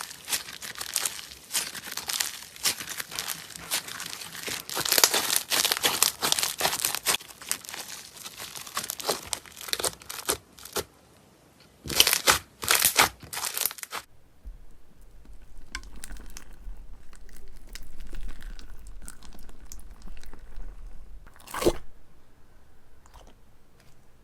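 Slime being squeezed and stretched by hand, giving dense crackling and popping. A little past halfway it drops to quieter, scattered soft pops over a low hum, with one loud crackle near the end.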